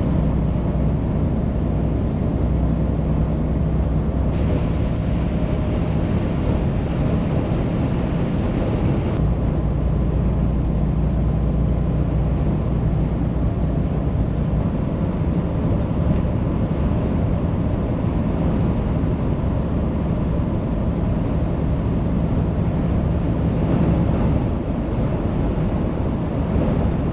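Truck driving on the highway: a steady low engine drone under continuous road and wind noise. The sound shifts abruptly about four seconds in and again about nine seconds in.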